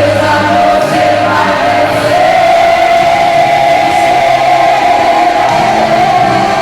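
Women's gospel choir singing a hymn, holding one long high note through the second half.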